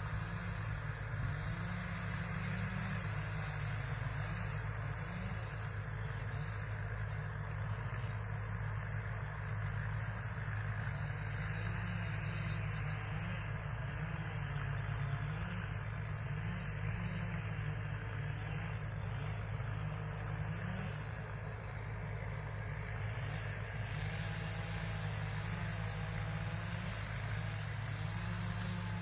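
Rice combine harvester's diesel engine running steadily, its pitch wavering gently up and down.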